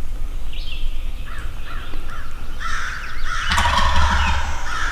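Wild turkey jakes calling close by: a quick run of four short harsh calls, then a loud rattling gobble about three seconds in.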